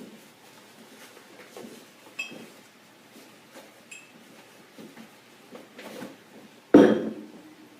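Kitchen handling sounds: light knocks and two short glass clinks. Near the end comes a loud bang with a brief ring, a kitchen cupboard door slammed shut.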